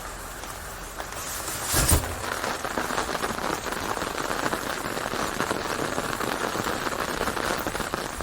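Rain falling steadily in a dense patter of drops, heavier from about a second in. A single loud thump about two seconds in.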